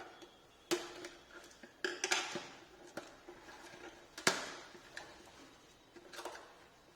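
Cardboard smartwatch packaging being handled and opened by hand: a series of knocks and clicks, the loudest about four seconds in, with brief rustling of card and paper after some of them.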